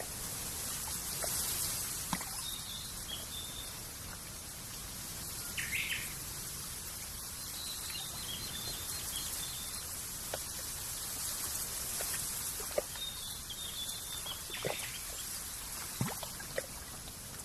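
Countryside ambience: small birds chirping in short repeated phrases over a steady high hiss, with a louder brief call about six seconds in and scattered soft water plops.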